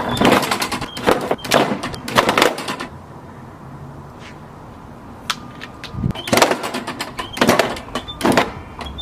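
A run of irregular clattering knocks, some with small squeaks. They come in two clusters with a quieter stretch of a few seconds in the middle.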